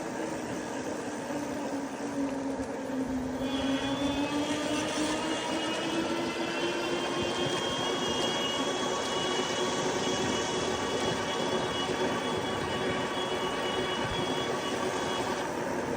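Lectric e-bike's electric hub motor whining under power over wind and tyre noise. Its low hum rises in pitch over the first few seconds, then holds steady; a higher whine comes in a few seconds in and drops out near the end.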